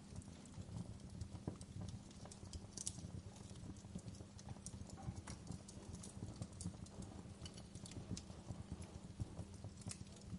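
Wood fire burning in a fireplace, crackling and popping irregularly over a low steady rumble.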